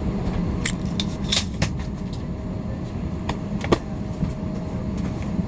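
Steady low rumble of an airliner cabin's ventilation before takeoff, with a few scattered clicks and knocks, the sharpest about two-thirds of the way through.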